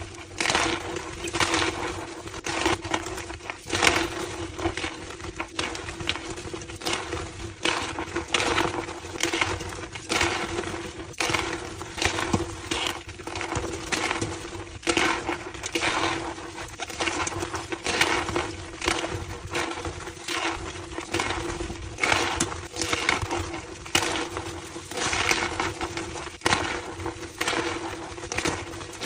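Homemade gym chalk slabs being crushed, with repeated squeaky crunching strokes about one a second.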